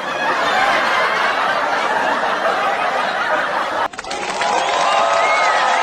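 Audience laughter from a studio crowd, a sitcom laugh track. It cuts off abruptly about four seconds in and gives way to a different crowd sound with several held voices.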